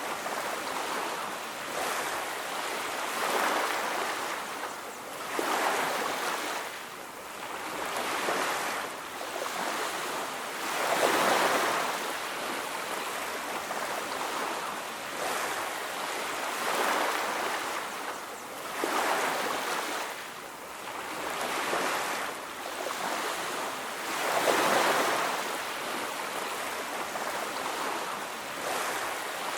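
Ocean surf on a beach: waves breaking and washing in one after another every few seconds, with a steady hiss between them.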